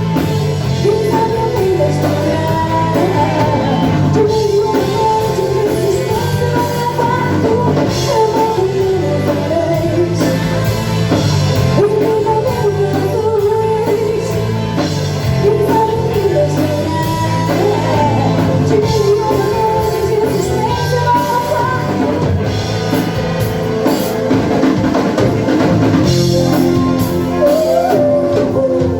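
Live rock band playing a song: drum kit, bass and guitars under a sung melody, at a steady loud level.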